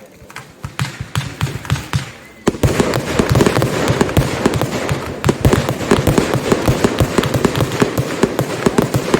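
Consumer fireworks in a display: a few scattered bangs, then about two and a half seconds in a dense barrage of rapid cracks and bangs starts and keeps going.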